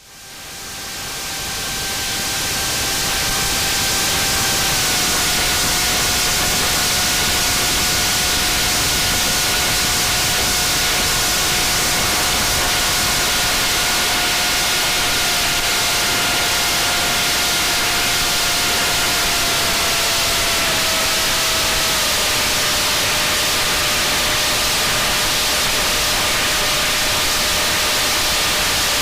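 Wind rushing over the microphone of a flying wing's onboard camera, with the faint steady whine of its brushless motor and propeller underneath. The whine drops in pitch in small steps a few times as the throttle is eased back.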